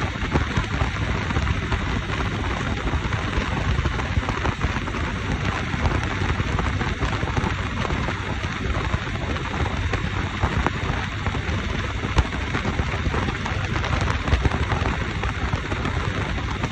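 Wind buffeting the microphone on a moving motorcycle: a steady rushing noise with a heavy low rumble.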